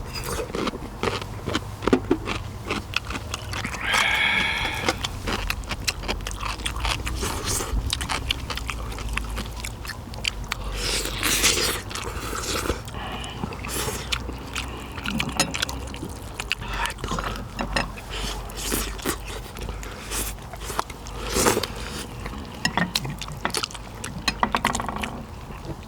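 Close-up eating sounds of a person biting and chewing meat off pork bones from gamjatang, full of short clicks and scrapes.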